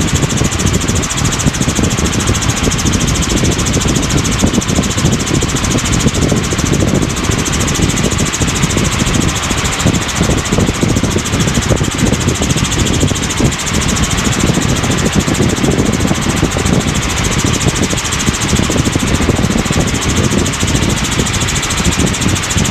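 Helicopter in flight: steady, unbroken engine and rotor noise.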